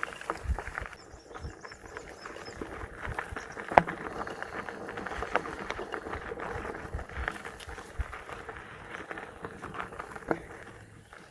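Mountain bike rolling over a dry, dusty dirt trail: tyres crunching on loose ground, with the rattles and knocks of the bike over bumps. A sharp knock about four seconds in is the loudest, and another comes near the end.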